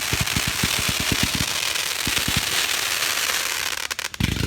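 Fireworks going off: a rapid string of sharp crackling pops, about nine a second, that thins out after the first second and a half, over a steady crackling hiss. A short low rumble comes near the end.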